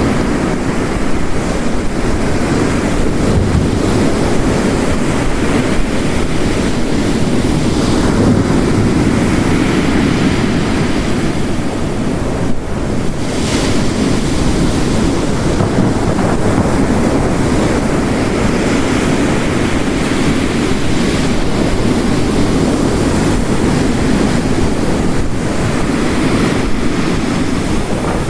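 Ocean waves breaking and washing on a rocky coast, mixed with steady heavy rain, in slow swells.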